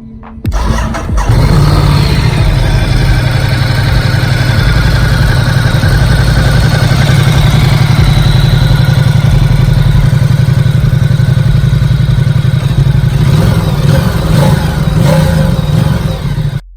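Motorcycle engine starting about half a second in, then running steadily until it stops abruptly near the end.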